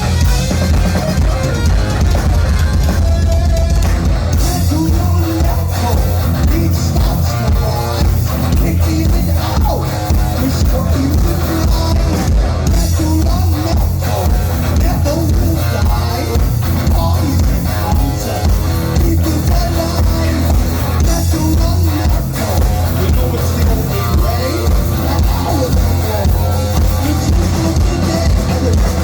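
Heavy metal band playing live and loud: distorted electric guitar, bass and a drum kit keeping a steady beat.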